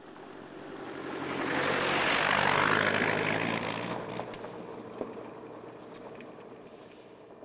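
Land Rover Series 88 driving past and away, its engine running loudly through a broken exhaust pipe and silencer. It swells to its loudest about two to three seconds in, then fades steadily. A single sharp click comes about five seconds in.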